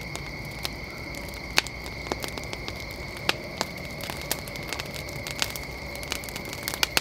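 Wood fire crackling with irregular sharp pops, over a steady high insect chorus.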